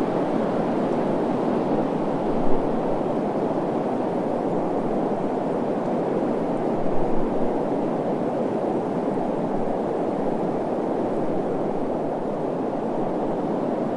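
Steady rushing desert wind, with two brief gusts about two and a half and seven seconds in.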